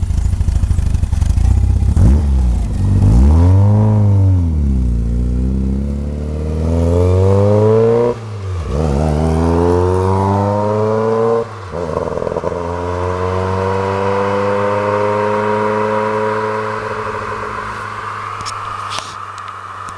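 Volkswagen Golf Mk1 Cabriolet's 2.0-litre 16-valve four-cylinder engine. It is blipped once, then the car pulls away and accelerates, with two upshifts where the revs drop sharply. It then pulls steadily in a higher gear with the revs slowly rising.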